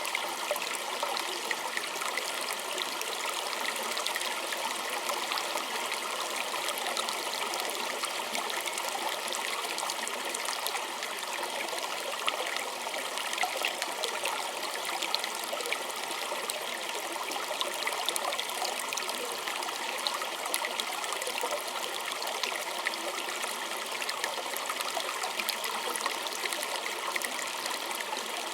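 Small stream trickling and babbling over stones, a steady, even rush of water with little splashes and no pauses.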